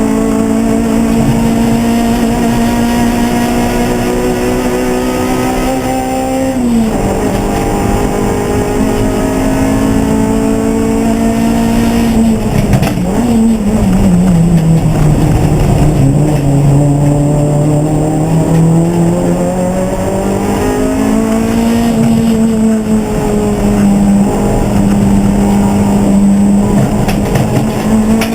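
Race car engine running hard throughout, its pitch holding, stepping down twice, then climbing again as the revs change through the corners and gears.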